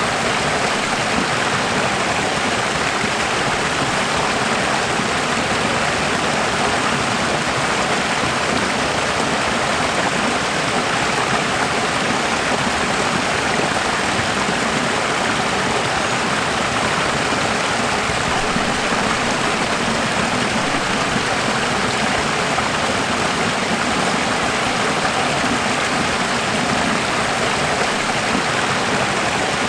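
Running water: a steady, even rush of flowing stream water with no breaks or changes.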